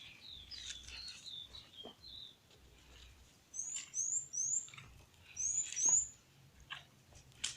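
Birds chirping: a quick run of falling notes in the first two seconds, then two short bursts of rapid high-pitched notes, mixed with a few sharp clicks.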